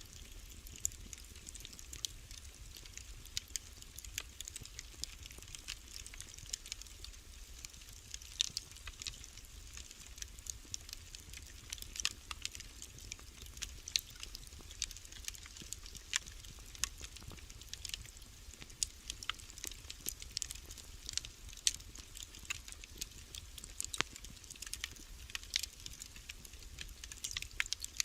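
Wood fire crackling in a fireplace: a continuous scatter of irregular sharp pops and snaps over a low steady rumble.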